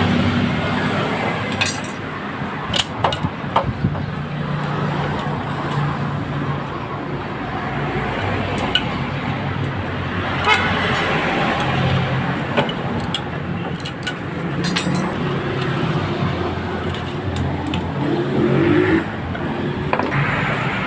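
Suzuki Raider 150's single-cylinder four-stroke engine running steadily, with scattered sharp clicks and knocks over it.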